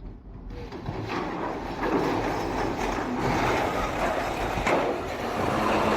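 Ship's hull sliding down the launch ways: a heavy rumbling, grinding noise that swells about a second in, with a couple of sharp knocks.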